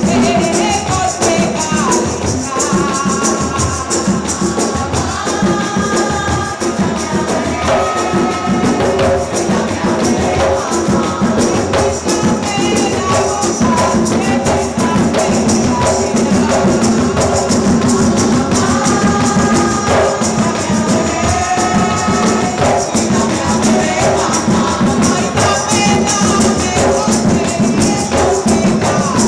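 Live Afro-Puerto Rican percussion music: a steady driving rhythm of hand drums and shaken rattles, with voices singing over it.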